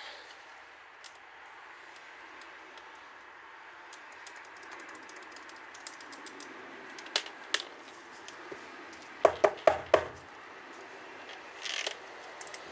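Handling of small parts and tools: scattered light clicks and taps, a quick run of sharp knocks about nine seconds in, and a short hiss near the end.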